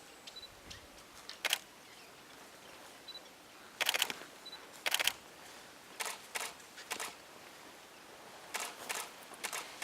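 Camera shutters clicking, about eight times, some as single frames and some in quick bursts of two or three. Faint, brief high peeps come in between.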